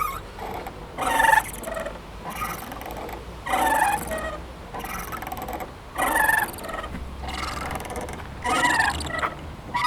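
A playground swing creaking rhythmically as it swings back and forth, with a squeal at each end of the arc about every two and a half seconds and fainter creaks in between.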